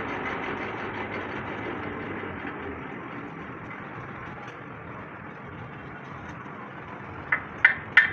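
Steady background rumble of passing road traffic, easing off slightly, with three quick sharp knocks near the end.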